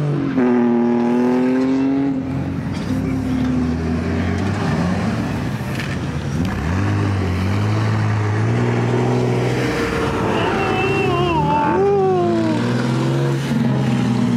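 Several car engines running and revving at once, their pitches rising and falling and overlapping, with a brief high, wavering squeal over them about two-thirds of the way through.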